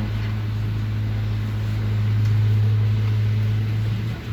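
Houseboat's motor running steadily under way at about 3300 rpm, a constant low drone that swells slightly in the middle.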